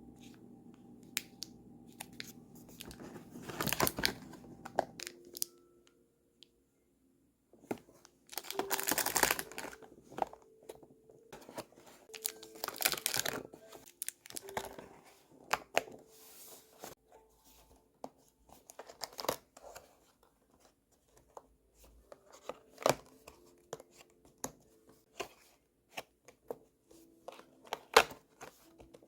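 Paper or plastic packaging being torn and crinkled by hand, in several short rustling bursts with small clicks and taps between.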